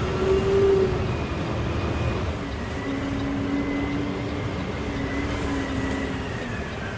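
Garbage truck running: a steady low rumble with whining tones over it that step down and slowly fall in pitch.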